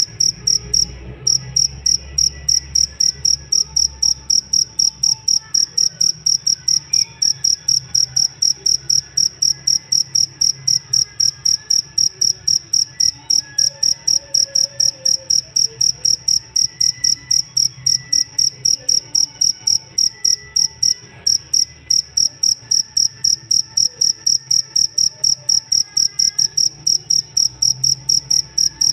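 Jangkrik ngerik cricket chirping in a fast, even pulse at one high pitch, about three chirps a second, with short breaks about a second in and again around two-thirds of the way through.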